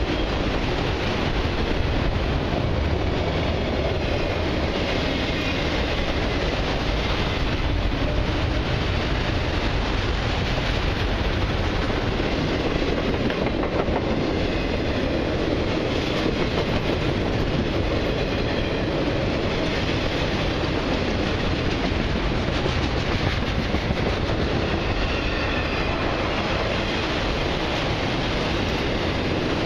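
Freight train of multilevel autorack cars rolling past at speed: a steady rumble and clatter of steel wheels on the rails.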